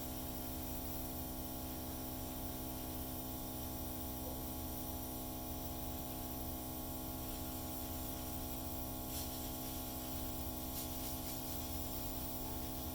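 A small electric motor running with a steady hum, made of several even tones, that holds level and does not change.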